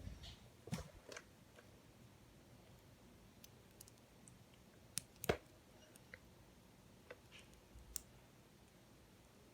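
Scattered sharp clicks of plastic LEGO Technic parts being handled and pressed together, about a dozen in all, with the loudest a little past five seconds in.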